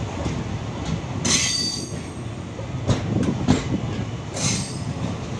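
Passenger train coach rolling out of a station at low speed: a steady rumble of wheels on rails with a few clacks over rail joints, and two brief high-pitched wheel squeals, one about a second in and one near the end.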